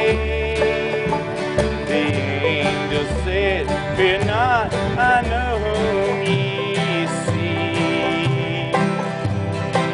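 Bluegrass-style acoustic music with plucked guitar and banjo over a steady bass line, and a lead melody that wavers and slides in pitch.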